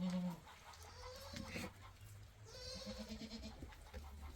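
Goats bleating, three separate wavering calls, the last one the highest and brightest.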